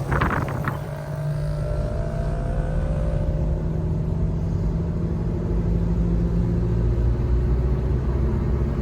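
Car engine running steadily while driving, a low drone with a fainter tone sinking slowly in pitch over the first few seconds.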